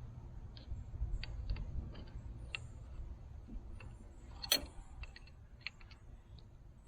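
Irregular metallic clicks and taps of wrenches working on hydraulic hose fittings as they are tightened, with one sharper click about four and a half seconds in.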